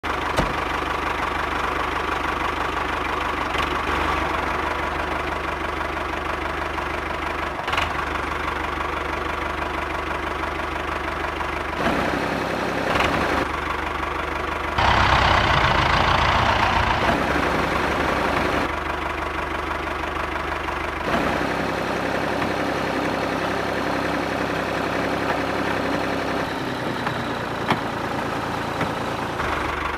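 A steady running, engine-like sound that changes character a few times and grows louder for about three seconds near the middle.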